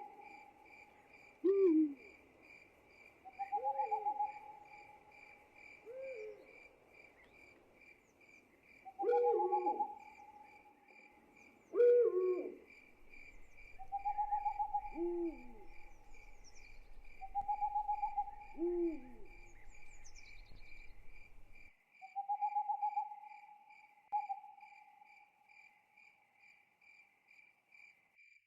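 An owl hooting repeatedly, each hoot a held note about a second long, over crickets trilling steadily in fast even pulses. Short lower calls that fall in pitch come between the hoots. The cricket trill stops just before the end.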